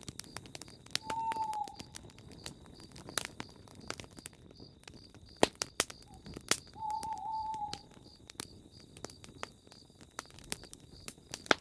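Campfire crackling with sharp, irregular pops, while an owl hoots twice: once about a second in and again, longer, about seven seconds in.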